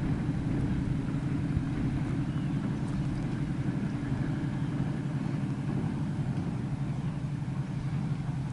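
Diesel locomotive engine running steadily, a continuous low rumble.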